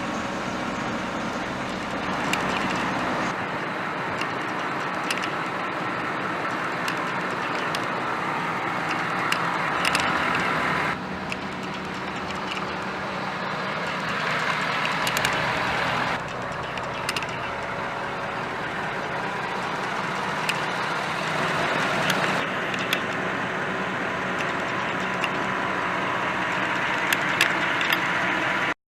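Ford 6.7L Power Stroke turbo-diesel V8 of a 2011 F-550 dump truck running. Its sound builds over several seconds and then drops abruptly, a few times over, with faint ticks on top.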